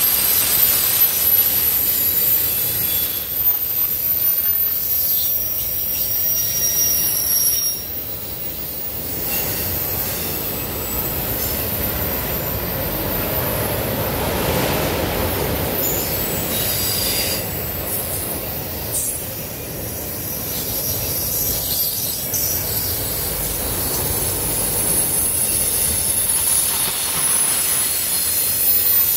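Freight train's autorack cars rolling past: steel wheels running on the rails with a steady rumble and a high-pitched wheel squeal that comes and goes.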